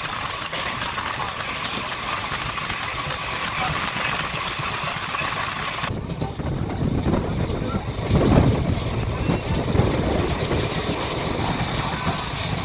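Steady rumble and rattle of a passenger train coach running on the track, heard from on board. About six seconds in, the sound changes abruptly: the hiss drops away and a heavier low rumble takes over.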